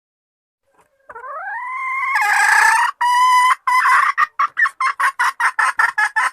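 Junglefowl hen calling: a long rising note starting about a second in, then a quick run of short clucks, about four a second. It is the hen's call used as a lure to draw in junglefowl cocks.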